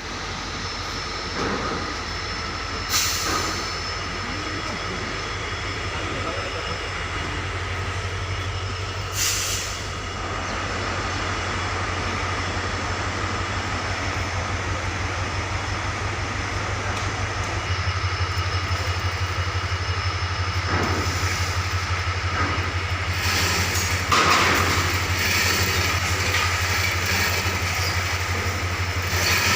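A heavy engine running with a steady, regular low pulse that changes pitch about eighteen seconds in, with a few sharp knocks over it.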